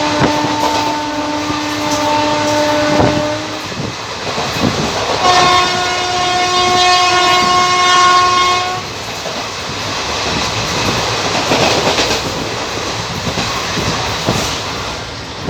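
Indian Railways passenger trains passing through a station: a long locomotive horn blast ends about three seconds in, and a second, higher-pitched horn blast sounds from about five to nine seconds. Under both runs the rumble of the train, with wheels clattering over the rail joints.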